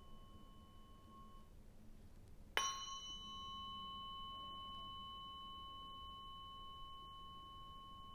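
Tuning fork struck once about two and a half seconds in, then ringing with a clear, high, steady tone that slowly fades. Before the strike, the ring of an earlier fork dies away.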